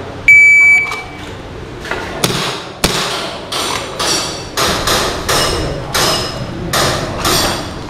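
A shot timer's start beep, then a string of about a dozen shots fired a few per second, each with a metallic ring.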